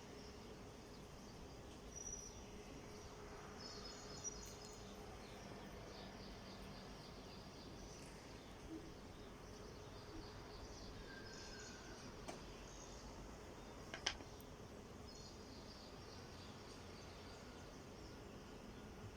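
Faint background ambience: a steady low hum with scattered short, high-pitched chirps, and a few soft clicks, the sharpest about fourteen seconds in.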